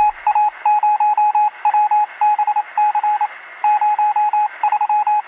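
Electronic beeping sound effect: a single-pitch, phone-line-like tone pulsed in quick irregular groups of short and longer beeps, like a dialing or data-signal effect.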